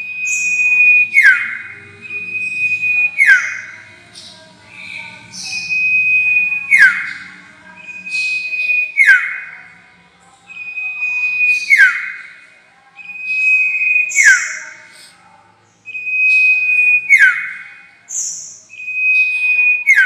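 Sirtu songbird lure call playing on a loop: a held, high whistled note, then a quick downward-sweeping note, repeated about every two seconds.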